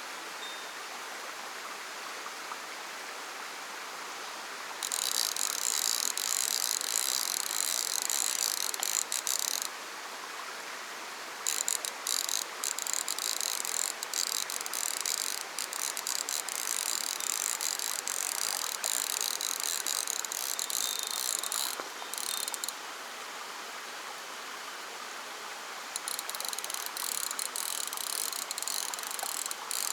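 Fly reel's click-and-pawl drag ratcheting in three long runs of rapid clicking as line is wound or pulled, each starting and stopping sharply, over the steady rush of a mountain stream.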